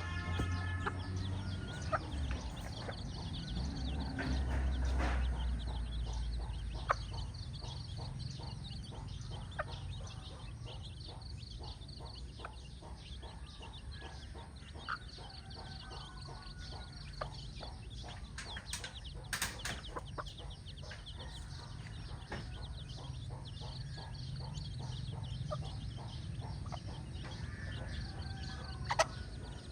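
Mother hen clucking among her chicks, which peep in short, high, repeated notes, with a few sharp taps in between.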